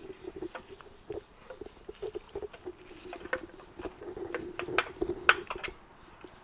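Light clicks and taps of an oil line fitting being handled and fitted into a motorcycle engine, with two sharper clicks about five seconds in.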